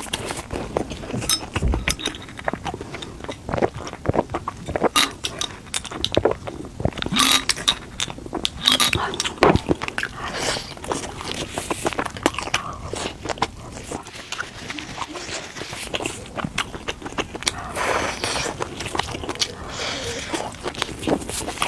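A person eating close to the microphone: chewing and biting, with many irregular mouth clicks and smacks.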